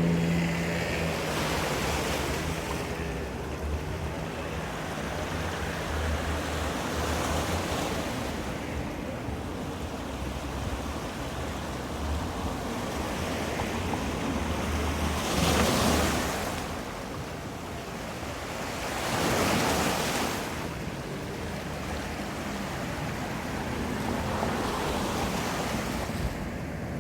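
Ocean surf washing in, with two louder waves breaking a little past halfway and again a few seconds later, over a steady low rumble.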